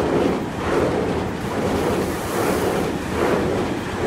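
Tokyu 4000-series electric commuter train rolling away along the tracks: a steady rushing rumble of wheels on rail that swells and fades about once a second.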